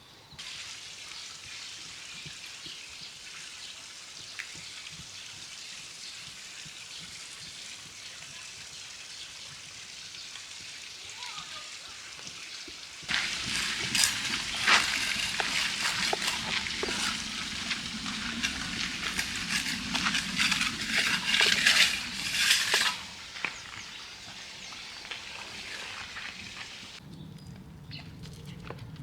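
Food frying and sizzling in hot fat: a steady hiss that grows louder and crackles with many sharp pops about halfway through, then settles back to a hiss.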